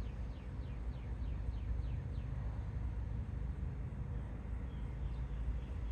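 A small bird calling a quick run of short falling notes, about four a second, for roughly two seconds, then a few faint notes later. A steady low rumble runs underneath.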